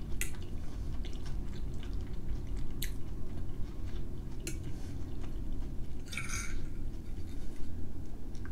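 Close-miked chewing of a soft mouthful of peas and potato gratin, mouth closed. A metal fork clicks a few times against a ceramic plate, with a short scrape about six seconds in.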